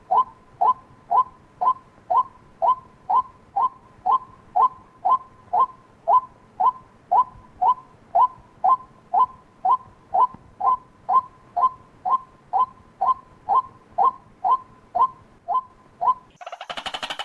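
White-breasted waterhen calling: one short falling note repeated evenly about twice a second. About a second before the end it switches to a faster, busier run of calls.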